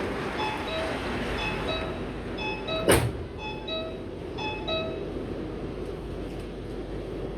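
Metro train door-closing warning chime: a two-note high-low beep repeating about once a second, which stops about five seconds in. A sharp loud thump just before three seconds, likely the sliding doors shutting, over the steady rumble of the train.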